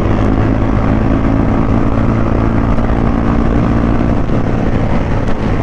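Motorcycle engine running at a steady pitch during a ride, loud and close.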